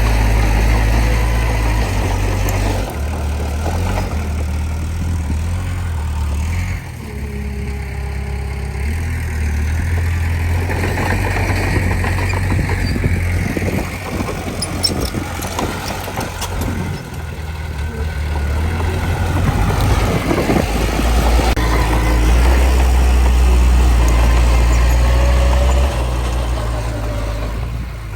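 Diesel engine of a Komatsu D20P bulldozer working, its low rumble rising and falling several times as the load changes.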